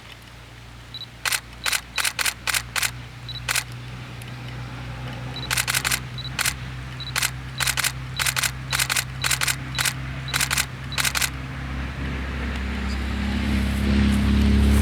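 Single-lens reflex camera shutter firing in quick irregular bursts, each shot a sharp double click, with short high beeps between the bursts. Near the end a vehicle engine grows louder.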